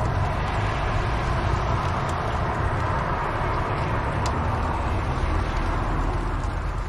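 Wood fire in a fireplace burning with a steady rushing hiss and a few sharp crackles.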